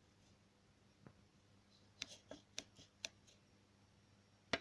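Near silence with a scatter of faint clicks and light knocks from metal engine parts being handled on a stripped-down Toyota 3SZ engine, and one sharper click near the end.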